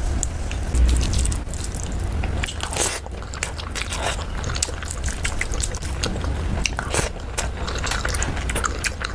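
Close-miked eating of chicken curry with rice: chewing and biting with many irregular wet mouth clicks and smacks, over a steady low rumble.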